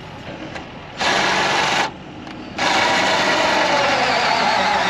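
A small electric motor whirring in bursts: a short run about a second in, then a longer run from about two and a half seconds, its pitch sagging slightly as it goes.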